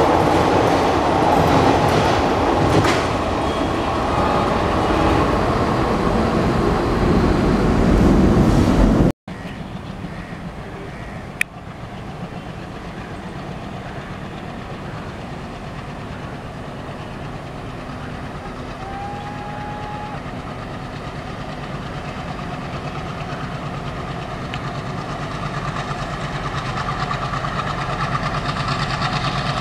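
Indian Railways passenger coaches rolling past close by, wheels clattering over the rail joints. After an abrupt cut, a WDM-3D diesel locomotive's engine is heard running in the distance, growing slowly louder as the train approaches.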